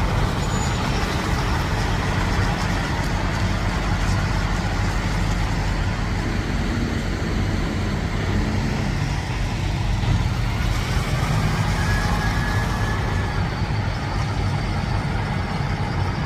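Semi-truck diesel engines idling steadily: a continuous low engine drone with a constant hiss of noise over it.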